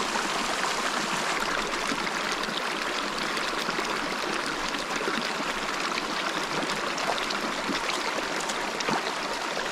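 River water flowing: a steady rush of moving water.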